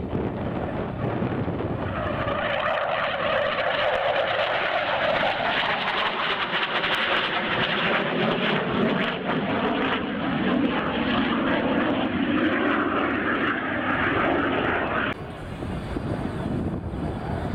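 A display aircraft flying past: a loud, steady engine noise that builds about two seconds in, with the pitch sliding down as it passes. It cuts off suddenly near the end, leaving wind noise on the microphone.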